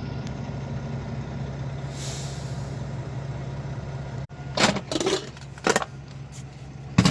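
Idling truck engine, a steady low hum. About four seconds in there is a sudden break, then several sharp clinks and knocks of plates and utensils being handled.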